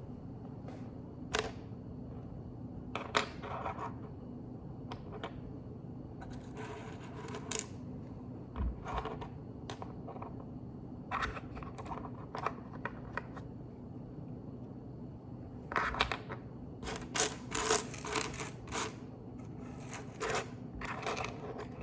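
Lego bricks clicking and rattling as pieces are picked up and sorted through, in scattered taps with a denser clatter near the end. A low steady hum runs underneath.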